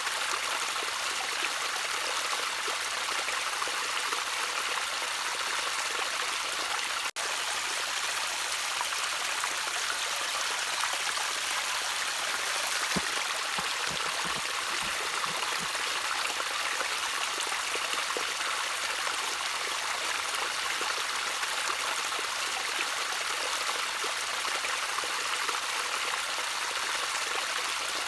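Gentle trickling water, a steady hiss and burble of a small stream, with a momentary break in the sound about seven seconds in.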